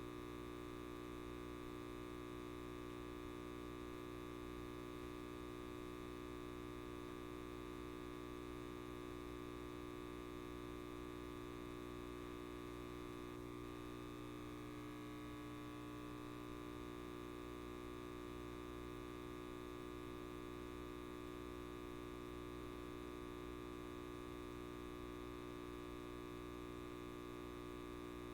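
Light bulb buzzing with a steady electrical hum, many even overtones held at one pitch.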